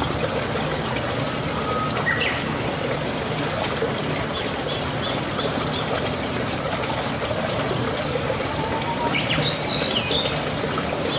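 Birds chirping in short bursts: one call about two seconds in, a quick run of chirps a little later, and a cluster of gliding calls near the end. Underneath is a steady trickle of running water.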